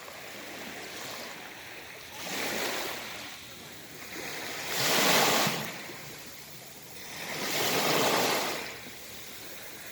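Sea waves washing in: three rushes of surf, each swelling and fading again, about three seconds apart.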